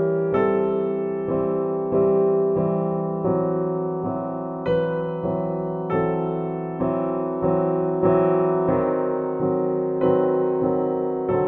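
Slow, gentle solo piano music: single notes and soft chords struck about every two-thirds of a second, each left to ring and fade.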